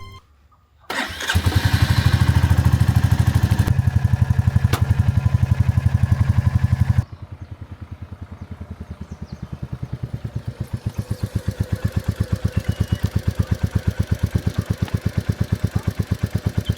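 Royal Enfield motorcycle engine starting about a second in, then running with a steady, rapid exhaust beat. About seven seconds in it drops abruptly to a quieter beat that slowly grows louder.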